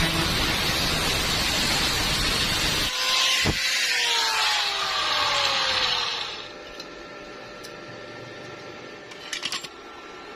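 Electric power tool working metal: loud grinding noise over a motor whine that sinks in pitch midway, stopping about six seconds in. Afterwards a low steady hum and a brief rattle of clicks near the end.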